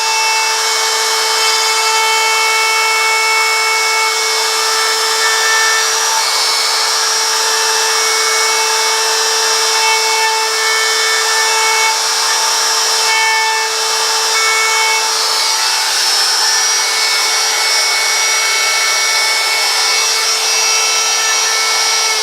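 Handheld wood router running at a steady high-pitched whine, its bit cutting into wood with a rough, varying cutting noise as it cleans up the edges and corners of carved sign letters.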